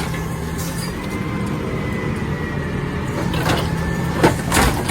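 Garbage truck engine running steadily, with a faint thin whine for a couple of seconds and a few sharp clanks near the end.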